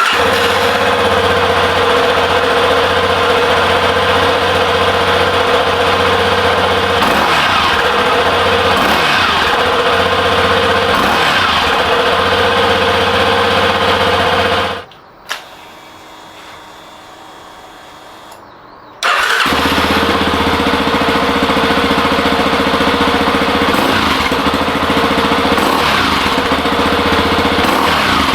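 Yamaha Serow 250's air-cooled single-cylinder four-stroke engine running steadily through a freshly fitted aftermarket exhaust (SP Tadao Power Box header pipe with a BEAMS Power-Trek silencer). The engine sound drops away for about four seconds near the middle, then comes back suddenly.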